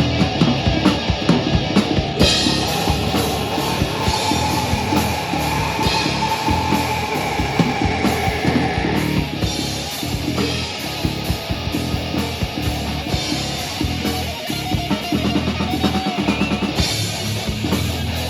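A live rock band playing loud, with a pounding drum kit and distorted electric guitar over bass.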